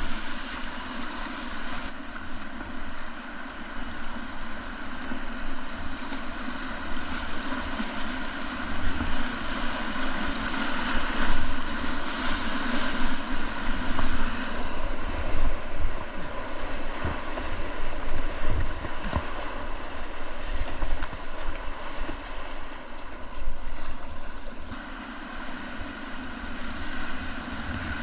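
River whitewater rushing steadily around a kayak, with wind rumbling on the microphone. The hiss of the water dulls for a stretch past the middle, then comes back near the end.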